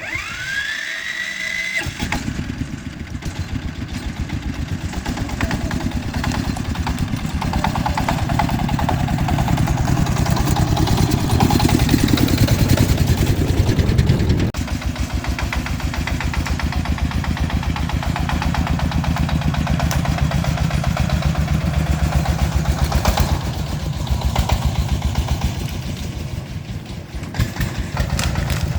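A small farm truck's engine starts up and runs with a fast, even pulsing beat, stepping down somewhat about halfway through.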